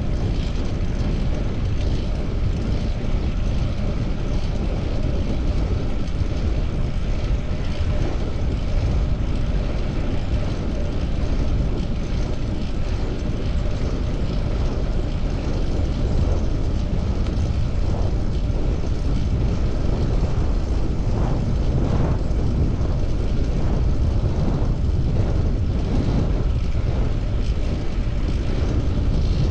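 Steady wind rushing over the camera's microphone while cycling, mixed with road noise, loud and even throughout.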